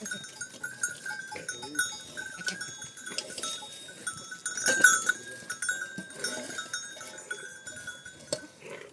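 Herd of goats and sheep: animals bleating now and then over the steady clinking of their bells, with one loud clank about five seconds in.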